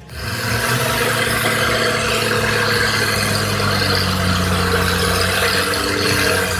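A large machine engine running steadily, a low hum with a broad rushing noise over it, starting abruptly.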